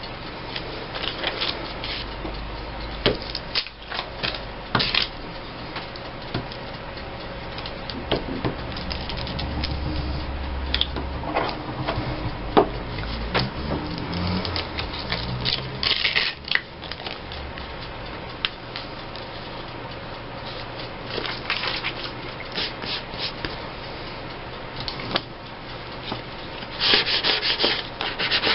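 Paper being handled and rubbed down onto a glue book page: scattered short scraping and rustling strokes in clusters.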